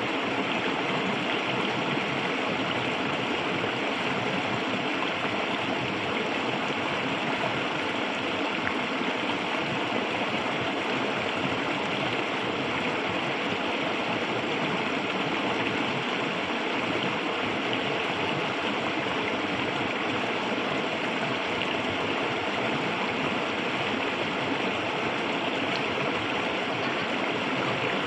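Clear, shallow river water flowing and babbling steadily.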